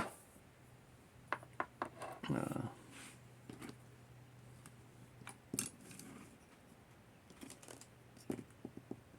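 Scattered light clicks and taps of small items being picked up and set down on a workbench, one sharper click at the very start.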